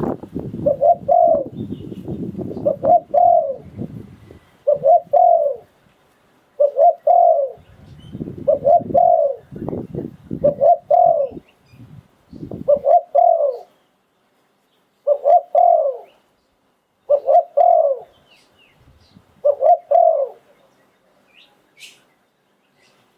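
Spotted dove cooing its phrase over and over, about ten phrases roughly two seconds apart, stopping near the end. A low rumble runs under the calls in the first half.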